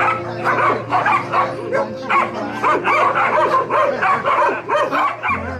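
Dogs yipping and whining in quick, overlapping short calls, over low held music notes.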